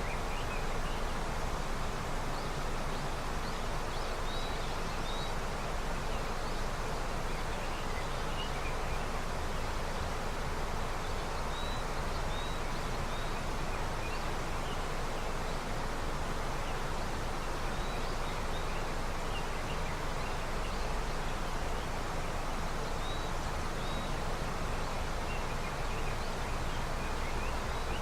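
Steady rushing of a river running with snowmelt, with a few faint high bird chirps scattered through it.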